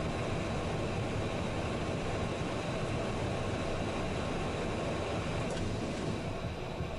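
Steady, even rushing noise inside a private jet's cockpit on the ground after landing.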